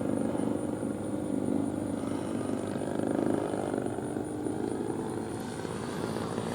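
GP123 gas engine of a large radio-control model airplane running, with its propeller buzzing at a fairly steady speed and small swells in level.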